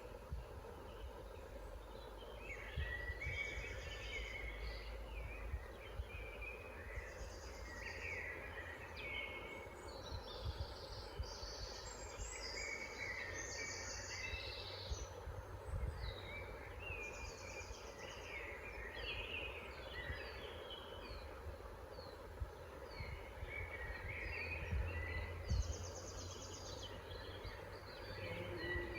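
Several woodland birds singing and calling at once: overlapping chirps, rapid trills and quick falling notes, busiest in the middle of the stretch. A low steady rumble runs underneath.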